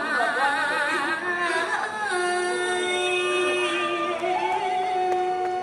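Music with a singing voice: a high line with wide vibrato, then long held notes.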